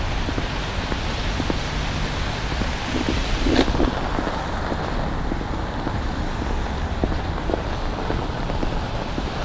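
Rain and sleet falling steadily, a continuous hiss dotted with many small ticks of drops landing. A short, louder clatter comes about three and a half seconds in.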